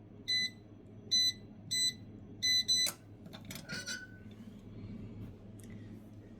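Electronic keypad on a key lock box beeping five times as a code is punched in. A click and a short metallic rattle follow as the box opens.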